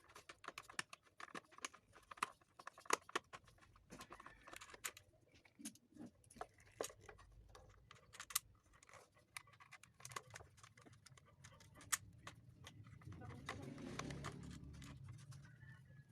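Irregular light clicks and taps of hands handling small parts in a motorcycle battery compartment. A low rumble swells and fades near the end.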